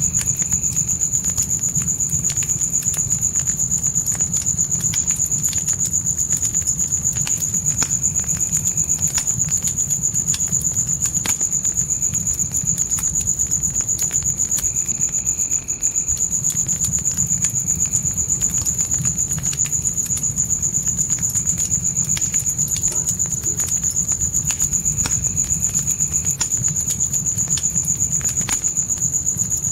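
Crickets chirping in a continuous, steady high-pitched trill over a crackling fire, with scattered pops and a low steady rumble underneath.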